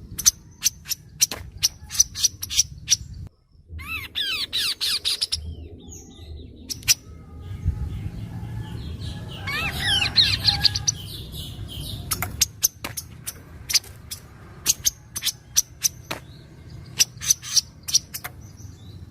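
Kaso-kaso bird singing: a string of sharp, short, high chip notes, broken about four seconds in and again about ten seconds in by brief bursts of rapid sweeping, trilled notes.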